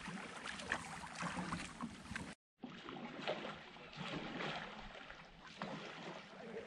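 Canoe paddles dipping into river water and splashing in irregular strokes, with water sounds along the hull. The sound cuts out completely for a moment about two and a half seconds in.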